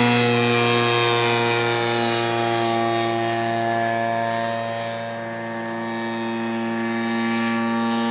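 Engine of a large radio-controlled model airplane running steadily in flight, with a buzzing, even pitch. It fades a little about five seconds in, then grows louder again as the plane passes.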